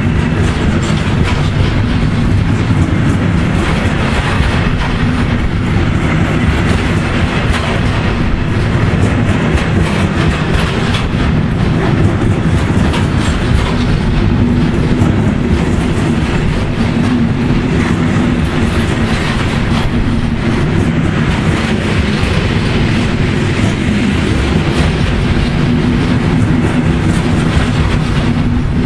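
Timber-loaded freight wagons rolling past close by, their wheels clattering on the rails at a steady level.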